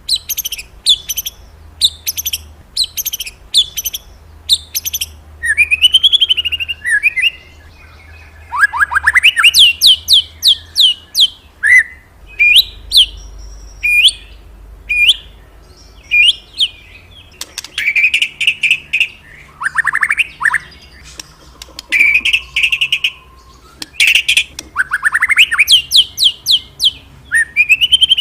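Murai songbird singing a loud, varied song. It opens with a run of sharp repeated chirps, about two a second, then moves into whistled notes that slide up and down, quick trills and rapid chirp runs.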